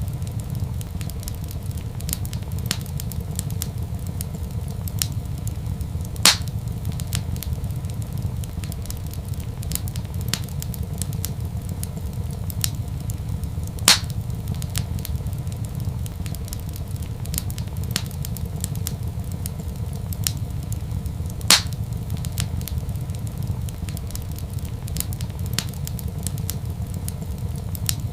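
Wood fire burning in a fireplace: a steady low rumble with frequent small crackles, and three loud pops spaced several seconds apart.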